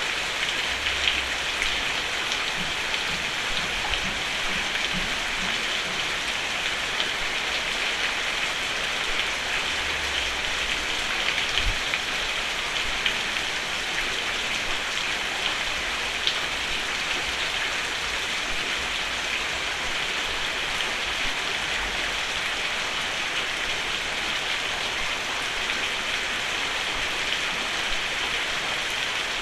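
Steady rain falling on a roof: a dense, even patter with scattered louder drops ticking through it.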